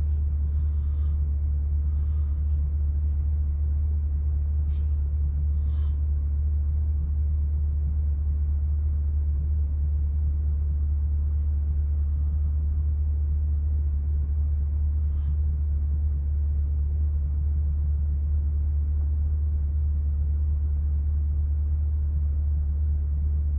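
The 2020 C8 Corvette's 6.2-litre LT2 V8 idling, heard from inside the cabin as a steady low rumble, with a few faint clicks.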